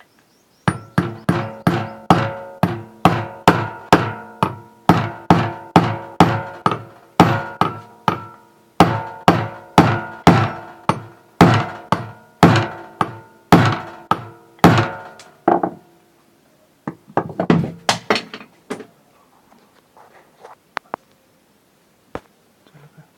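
Hammer blows on a screw set into a ceiling fan bearing with candle wax, struck about twice a second with a ringing metallic note, to force the bearing out. Around 17 s a quicker run of lighter blows follows, then only a few faint taps.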